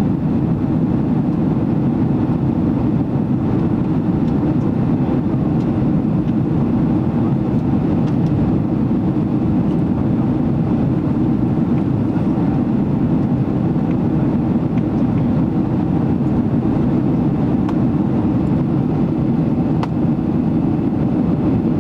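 Steady low drone of a Boeing 767-300ER's engines and airflow, heard inside the passenger cabin in flight.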